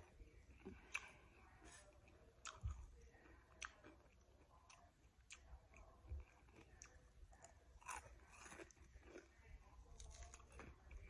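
A person chewing and biting crispy fried chicken, KFC Extra Crispy: quiet, irregular crunches and crackles of the breading.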